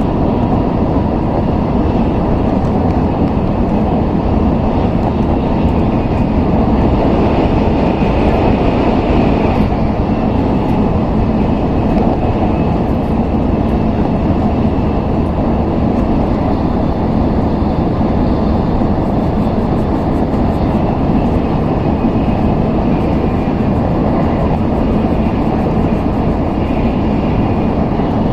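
Steady running noise of an N700S Shinkansen train at speed, heard inside the passenger cabin: a constant low rumble of wheels on rail and air rushing past the carriage.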